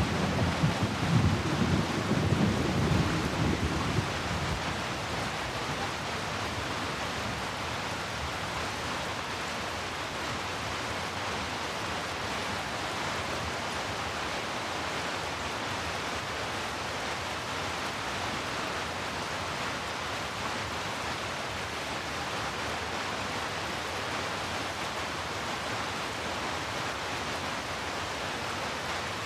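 Steady rain falling, an even hiss. A low rumble of thunder fades away over the first few seconds.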